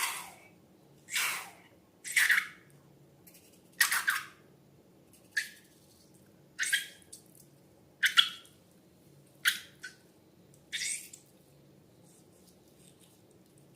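Slime being worked by hand: nine short wet squelches, about one every second and a quarter, each crackling briefly and then fading.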